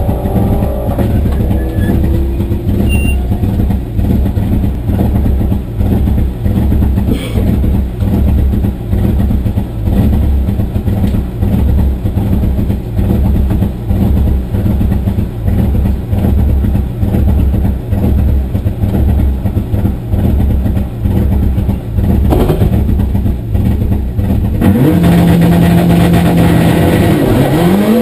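Race car engine heard from inside the caged cabin, idling with a regular low pulsing of about two beats a second. Near the end it is held at a steady higher speed, then revs up as the car pulls away.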